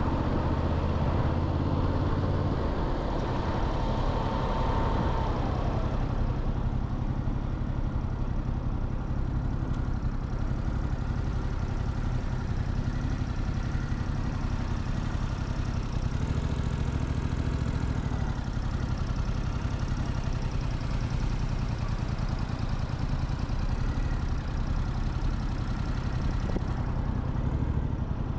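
Motorcycle engine running steadily at low revs, as at idle or a slow roll. A thin high tone is heard for the first five seconds, then slides down and fades.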